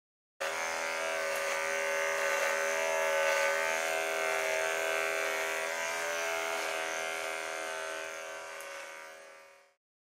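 A small electric motor buzzing at a steady pitch, starting about half a second in and fading out near the end.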